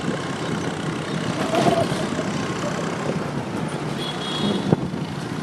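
Motorcycle riding in traffic: engine running under steady road and wind noise, with one short sharp knock about three-quarters of the way through.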